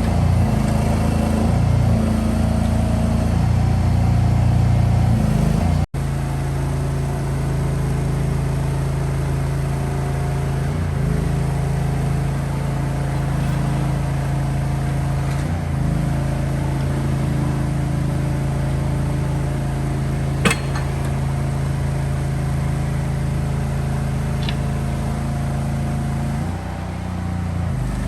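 A steady low engine hum, with one sharp click about twenty seconds in.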